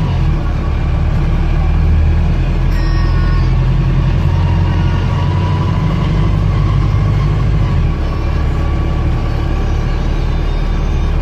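Mercedes-Benz OM934 four-cylinder diesel of a Wright StreetDeck double-decker bus running steadily under way, heard on board as a loud low drone, its note changing about eight seconds in.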